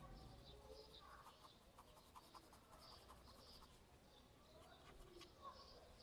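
Near silence, with faint, intermittent high bird chirps in the background.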